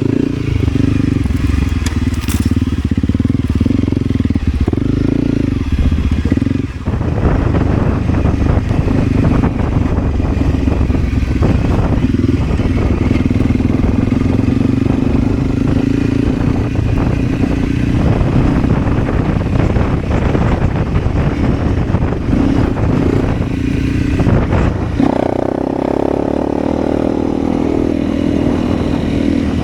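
Motorcycle engine running steadily while riding off-road. A rough, crackling clatter joins from about seven seconds in and fades near the end, when the engine note rises.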